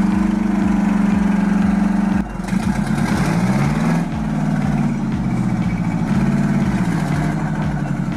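Heavy truck engine working hard under load. It holds one steady pitch for about two seconds, then revs up and down several times. A steady low beat runs underneath.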